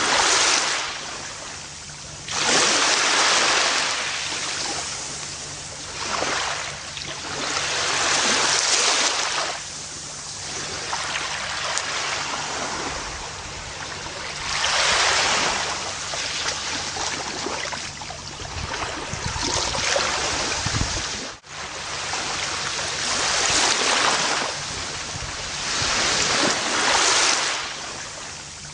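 Gentle ocean waves washing onto a beach, the surf swelling and fading about every four to six seconds, with one brief sudden dip in the sound about three-quarters of the way through.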